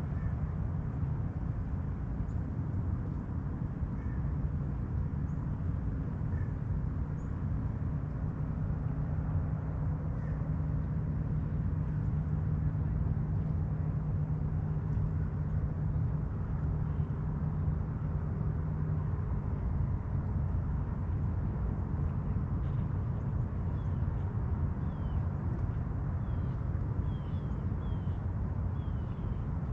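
Boat engine running on the river, a steady low rumble and hum that eases off about two-thirds of the way through. Faint short bird chirps come in near the end.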